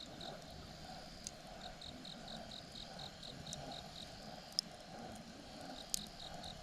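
Campfire crackling with a few sharp pops, the loudest about four and a half and six seconds in, over an insect chirping in a steady pulse of about four to five chirps a second.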